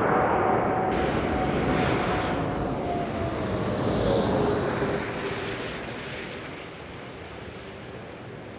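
Jet airliner-style turbofan noise from a Dassault Falcon 8X business jet flying past: a loud rushing roar whose engine tone drops in pitch as it passes, then fades away over the last few seconds.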